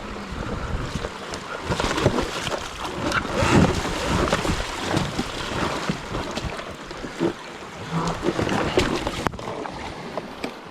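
Wind buffeting the microphone, with irregular knocks and rattles from an electric trials motorcycle being ridden over rough, rocky and rooty trail.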